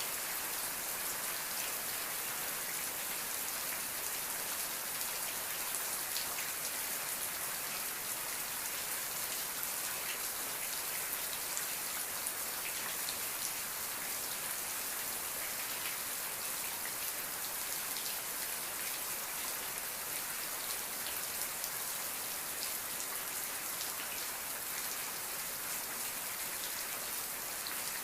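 Steady rain falling, with many fine drop ticks over an even hiss and no change in intensity.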